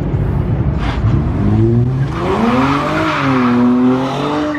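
Car engine revving hard under acceleration. Its pitch climbs over about two seconds and then holds high, with a rushing hiss over it.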